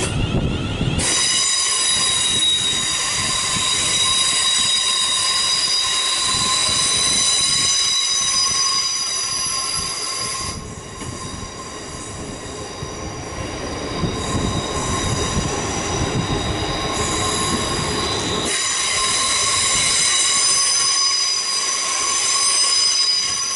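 London Northwestern Railway Class 350 electric multiple unit pulling out and rolling slowly past, with a steady high-pitched squeal of several tones over the running noise. The sound eases for a few seconds near the middle, then builds again.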